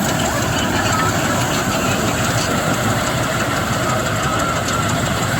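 Engine of wheat harvesting machinery running steadily, a dense, even mechanical noise that stays at one level throughout.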